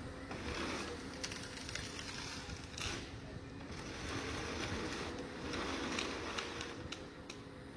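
Heavy forestry machine running: a steady engine hum with repeated bursts of hissing noise and a few sharp cracks.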